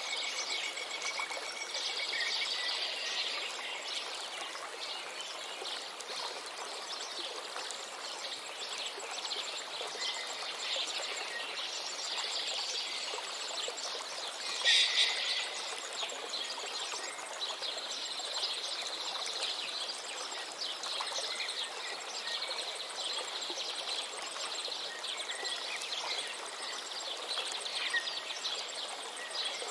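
River water flowing steadily, with birds chirping and singing over it and a thin high trill running underneath; one louder bird call stands out about halfway through.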